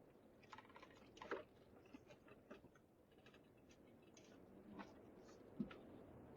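Faint, scattered small clicks and taps, irregular, with two slightly louder knocks about a second in and near the end, over a low steady hum.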